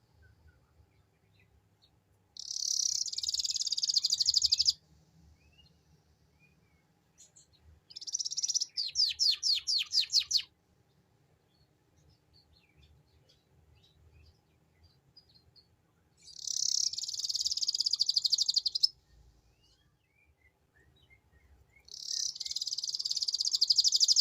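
Domestic canary singing in the 'ngeriwik' style: four bursts of fast, high trilling, each about two seconds long, with faint chirps in the gaps between them. The second burst ends in a run of slower, falling notes.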